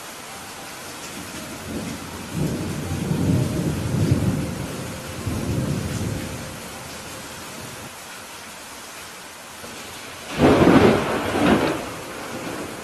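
Thunderstorm: steady rain hiss throughout, with a low rolling rumble of thunder from about two seconds in lasting some four seconds, then a louder, sharper thunderclap about ten seconds in lasting under two seconds.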